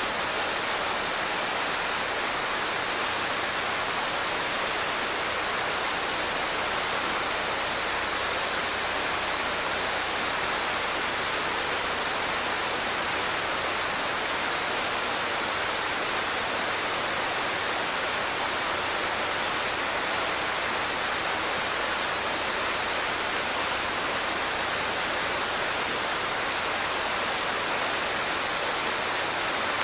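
Mountain stream water rushing in a steady, unbroken hiss.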